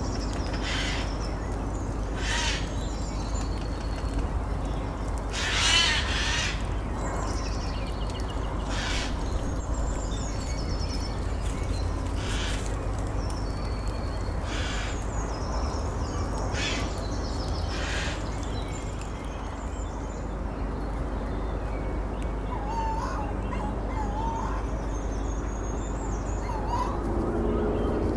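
Woodland birds from an overnight field recording: a large bird gives a series of harsh caws, one every one to three seconds, and falls quiet about two-thirds of the way in. Smaller birds twitter faintly behind it, and softer chirps follow near the end, over a steady low rumble.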